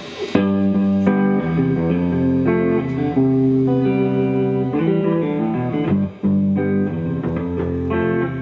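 Live band opening a song on electric guitar: sustained chords that change every second or so, with bass guitar underneath.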